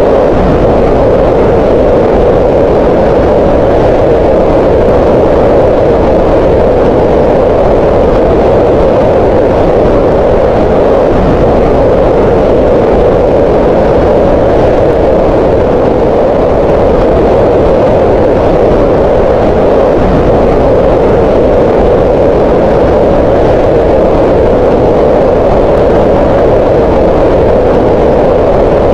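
Green noise: steady, loud synthetic noise centred around 500 Hz, with little energy in the highs, unchanging throughout.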